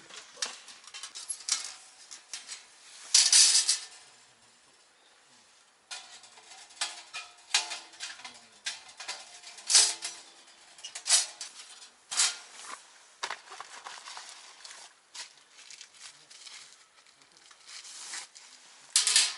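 Handling noise: irregular light clinks, taps and rustles, with a louder rustling burst about three seconds in and a short lull after it.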